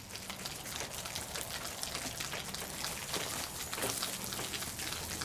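Ground beef sizzling and crackling as it browns in a pot over a campfire, a steady dense patter of small pops.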